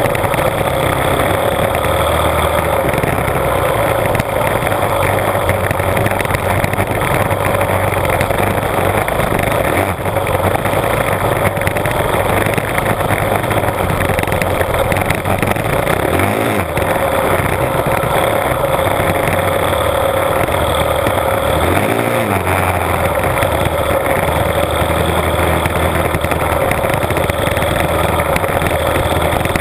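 Honda CRF450R's single-cylinder four-stroke engine running as the bike is ridden, heard from right by the front mudguard. The engine note holds steady, then briefly drops off and picks up again twice, about halfway through and near three quarters of the way.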